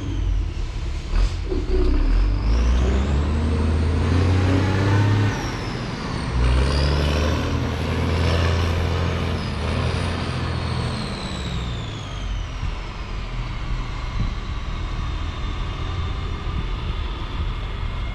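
Heavy diesel earthmoving equipment running, its engine speed stepping up and down several times. A high whine rises about two seconds in, then falls slowly through the second half.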